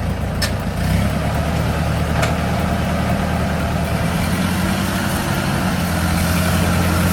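A heavy engine running steadily at idle, with a couple of brief clicks.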